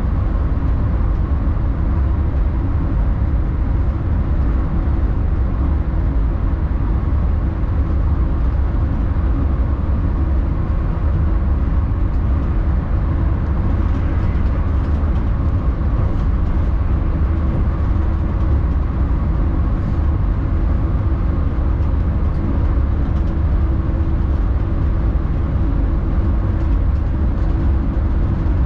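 Alstom X40 electric multiple unit running along the line: a steady, loud rumble of wheels on rail with a constant hum and no change in speed.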